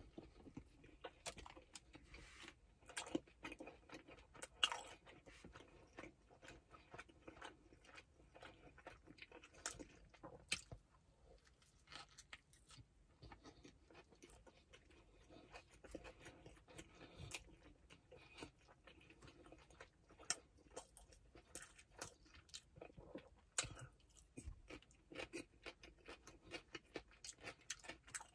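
Faint close-up chewing of a double steakburger with pickles, onions and cheese, with irregular soft mouth clicks and crunches.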